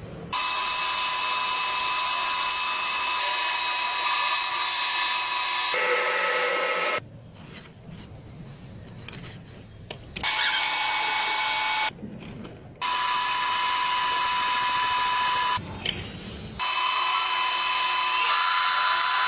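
Metal-working lathe running and cutting, a loud hissing machine noise with a steady high whine. It comes in several stretches that start and stop abruptly, with quieter gaps between them.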